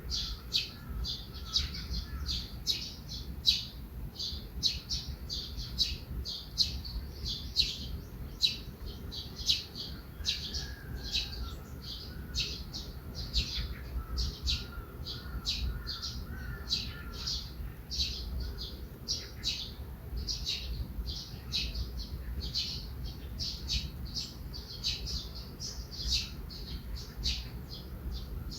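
Small songbirds chirping rapidly and continuously, several short high chirps a second, with a fainter lower warbling now and then, over a low steady rumble.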